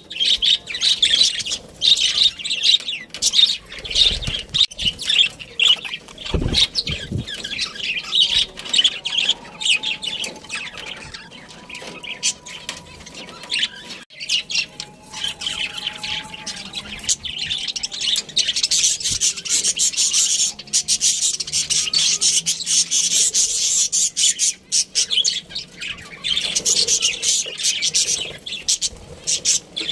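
Pet budgerigars chirping and chattering in a rapid, continuous stream of high twittering calls. There are two brief low thuds about four and six and a half seconds in.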